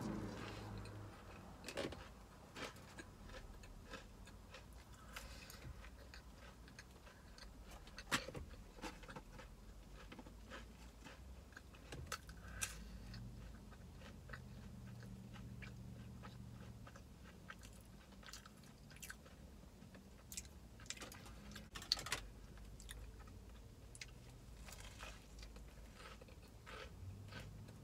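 A person biting and chewing a crispy fried chicken sandwich: fairly quiet chewing with scattered crackles and crunches, a few sharper crunches standing out.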